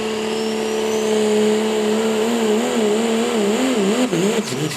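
Pulling vehicle's engine running hard at high revs under load, steady at first, then its pitch wavering up and down from about two seconds in and falling away near the end as the run goes wrong.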